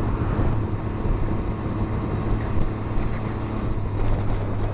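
Can-Am Ryker Rally Edition's three-cylinder engine running at a steady cruise on the road, holding an even note with no revving.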